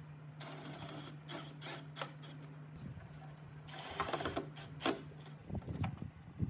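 A small machine hums steadily while rasping, scraping noise comes twice in short spells, with scattered sharp clicks and knocks, busier near the end.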